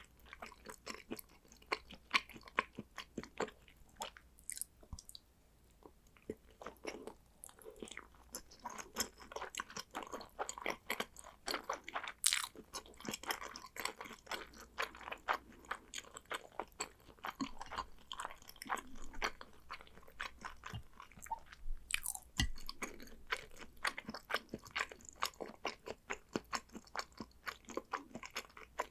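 Close-miked chewing of salmon sushi: a dense, uneven run of small mouth clicks, easing off briefly about five seconds in.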